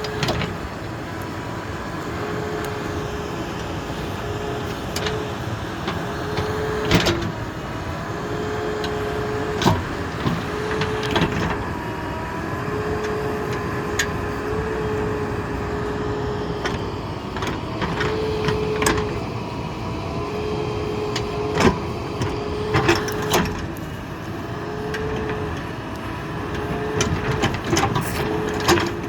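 JCB 3DX backhoe loader's diesel engine running as the machine is worked, with a tone that comes and goes in stretches of a second or two and sharp knocks now and then.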